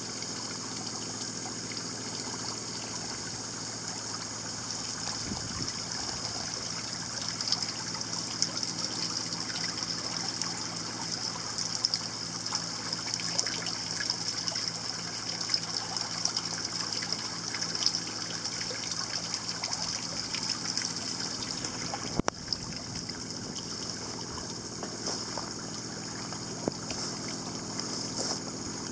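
Water trickling and running steadily, with a bright high hiss and many small splashes. There is a click about 22 seconds in, after which the sound is a little thinner.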